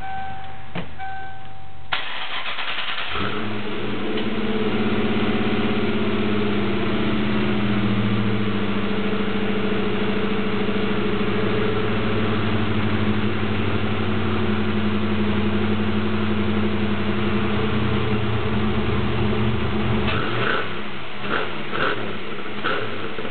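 1994 Mustang SVT Cobra's 5.0-litre V8 cranked on the starter and catching about three seconds in, then idling through Mac shorty headers and a 2.5-inch Mac Flowpath exhaust, running a little faster for several seconds after the start before settling. Near the end the low exhaust note drops away and a few short knocks are heard.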